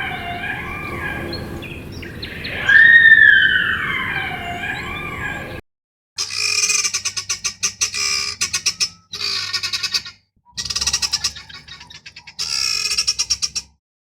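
Guinea fowl giving harsh squealing calls that glide downward, the loudest about three seconds in. After a sudden cut, a capybara makes rapid pulsed clicking chatter in four short bouts.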